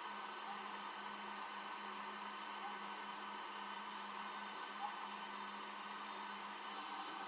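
Steady background hiss with a constant low hum and several steady high-pitched tones, unchanging throughout, with one faint tick near the end.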